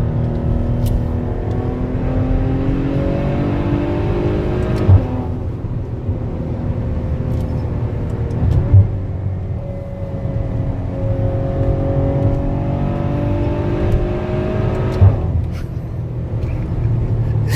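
Maserati Levante GranSport SQ4's twin-turbo V6 under hard acceleration, its pitch climbing through the gears and dropping at upshifts about five seconds in and again near fifteen seconds, each shift marked by a sharp crack. Another sharp crack comes about nine seconds in.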